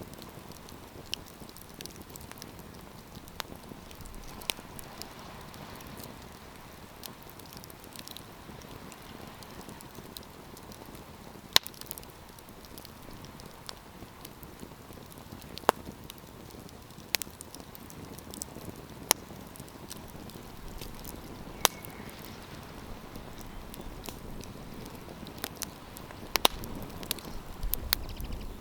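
Wood campfire crackling: irregular sharp pops and snaps over a steady soft hiss of burning, with a low wind rumble rising near the end.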